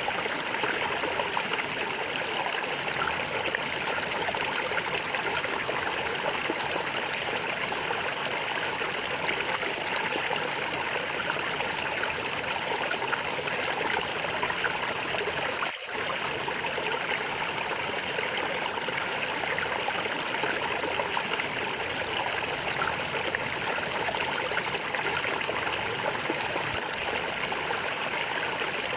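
Flowing water gurgling steadily, with one brief momentary break about halfway through.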